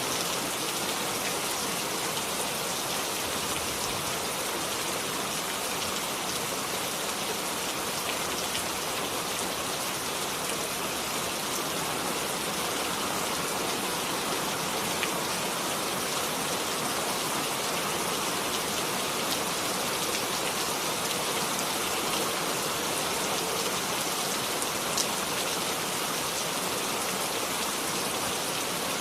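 Steady rain falling, an even hiss of many drops on a surface, with now and then a single louder drop.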